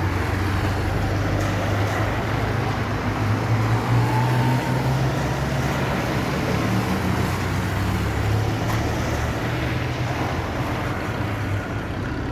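Motor vehicle running: a steady low engine drone that shifts a little in pitch, over road and wind noise.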